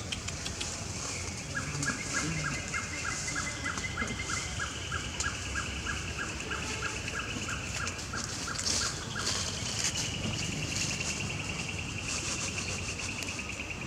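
Birds calling: a short note repeated about three times a second for several seconds, then a fast high trill that runs on to the end, over a steady high hiss.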